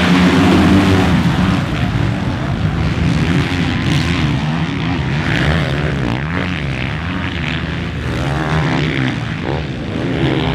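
Motocross dirt bike engines racing, revving up and down as riders work the throttle, with several bikes overlapping.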